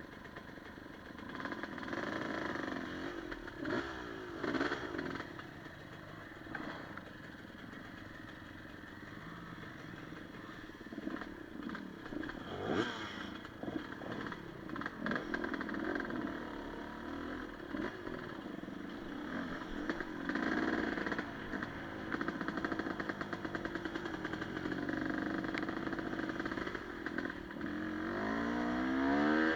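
Enduro motorcycle engine running on a trail ride, its revs rising and falling over and over, with scattered knocks and rattles. It revs up harder near the end.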